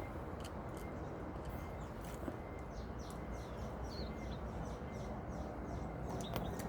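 Steady outdoor background noise with a bird giving a run of short, quick, falling chirps in the middle, and a few faint clicks, one sharp click right at the start.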